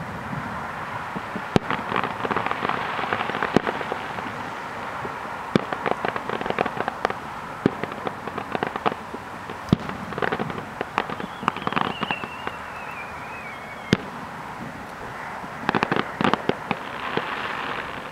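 Aerial fireworks bursting: sharp bangs scattered throughout, with spells of rapid crackling, and a whistle that falls in pitch over a few seconds near the middle.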